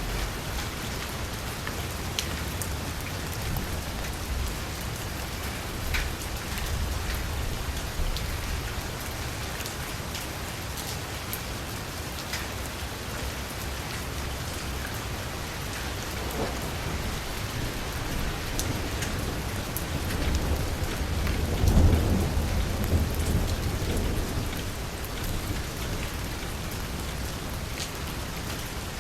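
Heavy rain falling steadily on a car's roof and window, with a few sharper drops standing out. A low rumble of thunder swells and fades about three-quarters of the way through.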